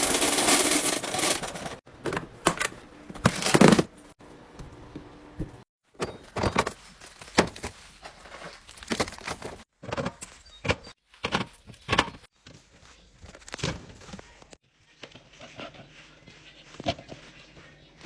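Food containers and jars clacking and clinking as they are set down and arranged in a fridge, in sharp separate knocks, after a loud crunching noise at the start. The sound drops out abruptly several times between short clips.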